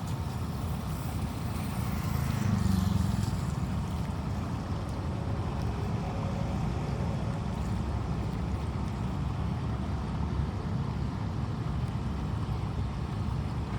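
Steady rushing noise of a rainstorm and running floodwater, with a heavy low rumble that swells briefly a couple of seconds in.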